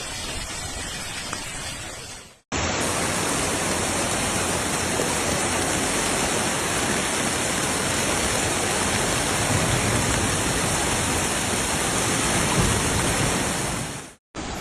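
Steady rush of water from heavy storm rain and flooding, an even hiss with no distinct drops or events. It breaks off sharply about two and a half seconds in and again near the end, where different recordings are cut together.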